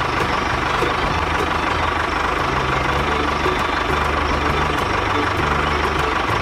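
Tractor engine running steadily, its low hum shifting up and down in pitch every half second or so.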